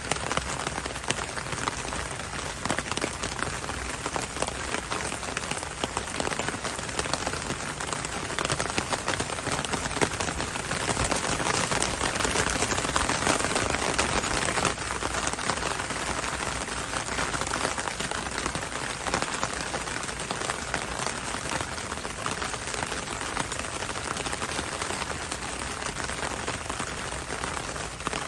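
Heavy rain falling steadily, a dense hiss of many drops on hard surfaces, swelling a little in the middle.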